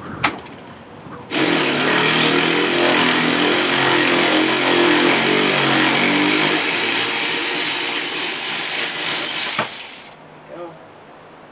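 A sharp click, then a cordless impact wrench running hard for about eight and a half seconds as it works a mower-deck spindle bolt loose, cutting off suddenly near the end.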